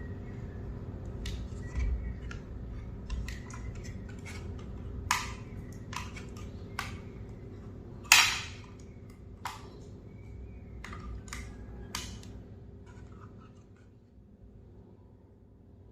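Hands handling small hard objects: scattered clicks and taps, with one loud sharp snap about eight seconds in, over a steady low hum.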